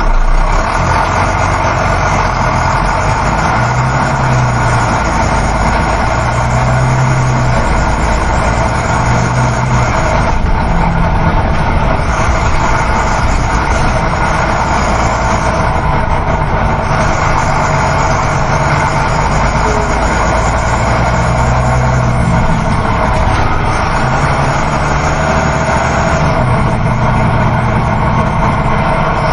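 Coach bus driving, heard from inside the passenger cabin: a steady engine drone with low tones that slowly shift, under continuous road and wind noise.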